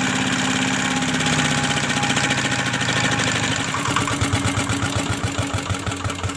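Diesel engine running steadily. From about four seconds in its beats come apart into separate, slowing thuds and the sound fades as the engine runs down.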